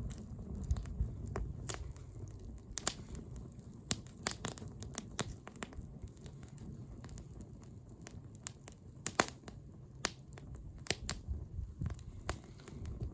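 Wood bonfire crackling: irregular sharp pops and snaps over a low steady rumble, with a quick cluster of pops about nine seconds in.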